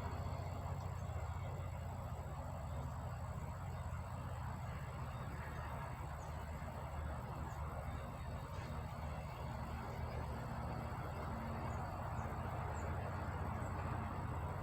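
Steady low mechanical hum with an even background rush and a constant thin high whine, typical of industrial shop noise.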